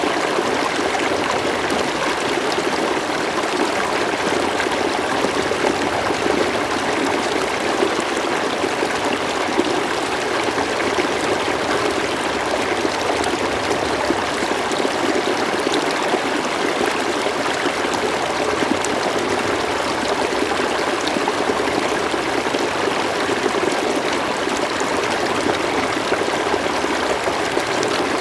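River water flowing steadily, a continuous even rush with fine trickling and splashing.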